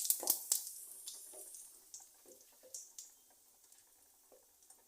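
Cumin seeds sizzling in hot oil, the hiss dying away over the first couple of seconds, then only scattered small pops and crackles.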